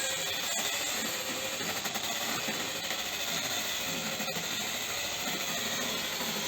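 Handheld grinder fitted with a wire brush, running steadily and scrubbing leftover clay off a brick fireplace surface to prepare it for plaster.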